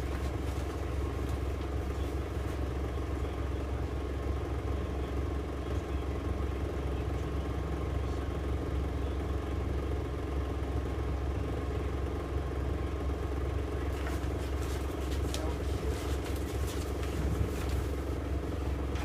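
Steady low mechanical hum, like a motor or fan running, with a few faint clicks about three quarters of the way through.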